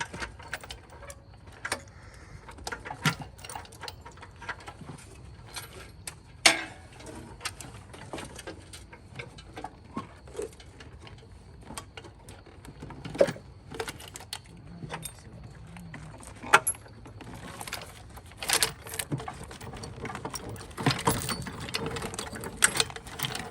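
Irregular metal clanks, knocks and clicks of tools and parts while an engine and gearbox are being worked back into a car, with a few sharper, louder knocks among quieter handling noises.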